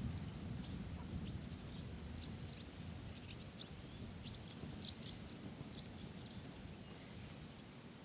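Small birds chirping faintly and irregularly, most busily about halfway through, over a low wind rumble.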